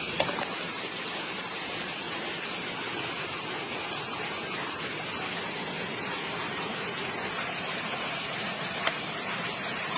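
Steady rushing of running water, as from a stream, with one sharp click about nine seconds in.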